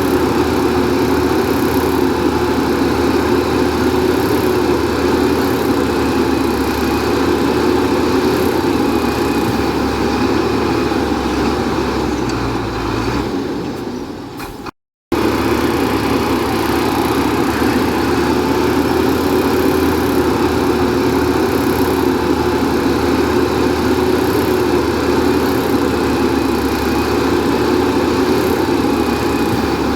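Heavy diesel engine of a bulldozer running steadily with a low rumble and a few held tones. About halfway through it fades, drops out for a moment, then comes straight back at full level.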